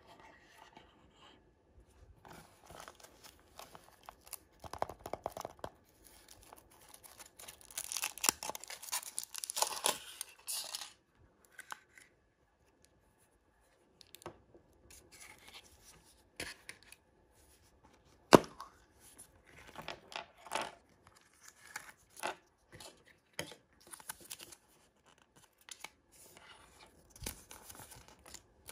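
Foil and plastic packaging being torn open and crinkled by hand, in irregular bursts, with a longer stretch of tearing about a third of the way through and a sharp click about two-thirds in.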